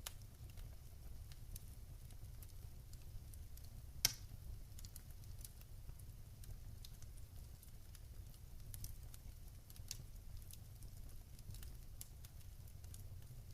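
Wood fire crackling in a fireplace: scattered small snaps and ticks over a low, steady rumble of the flames, with one sharp, much louder pop about four seconds in.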